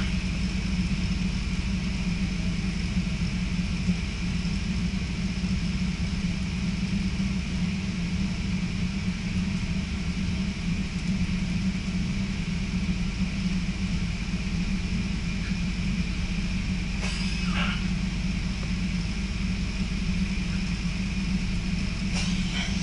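Electric passenger train running at speed, heard from inside the carriage: a steady rumble of the wheels on the rails, with a brief higher swish twice, once about two-thirds of the way through and once near the end.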